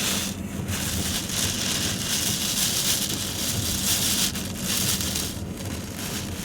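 Steady rushing hiss of hurricane wind and rain, swelling and easing a little.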